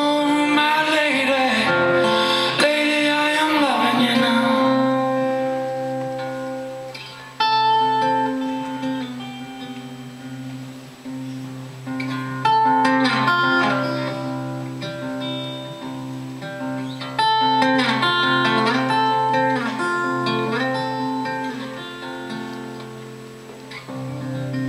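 Live acoustic guitar and voice: a long, wavering sung 'oh' for the first four seconds, then solo acoustic guitar chords ringing out and fading, struck afresh three times about five seconds apart.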